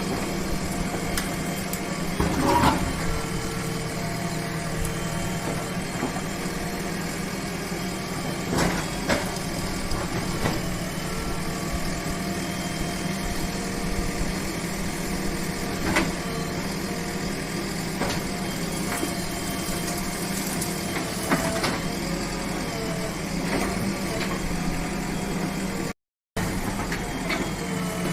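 Excavator's diesel engine running steadily while it clears brush, with occasional sharp cracks and knocks over the engine sound. The sound cuts out briefly near the end.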